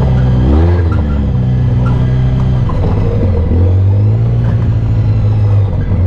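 Off-road vehicle engine running loud under throttle, its pitch rising and falling briefly about half a second in, dipping near three seconds, then holding steady.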